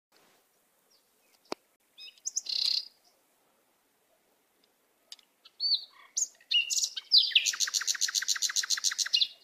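Birds chirping: a few short, high calls, then a fast, even run of chirps in the last two seconds. A single sharp click sounds about a second and a half in.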